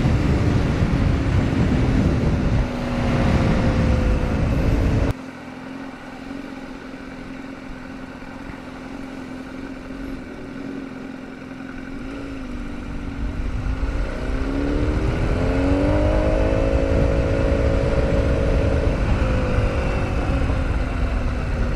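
Honda CBR1000RR inline-four engine running under way, with heavy wind noise. The sound drops off abruptly about five seconds in, then the engine note climbs steadily as the bike accelerates and holds high near the end.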